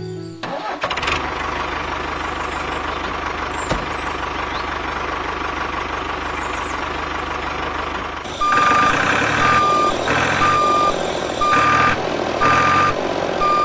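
A vehicle engine running steadily. From about eight seconds in, a reversing alarm beeps over it about once a second.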